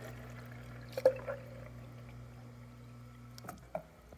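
Water fountain in the station running: water flowing from the spout over a steady low hum. There is a sharp click about a second in, and the hum and flow cut off suddenly about three and a half seconds in.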